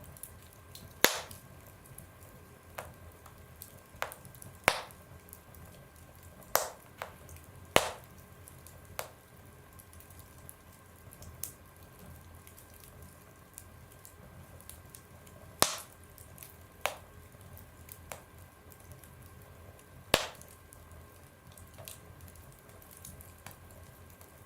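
Burning wood fire crackling: irregular sharp pops and snaps, about half a dozen of them much louder, over a low steady hiss.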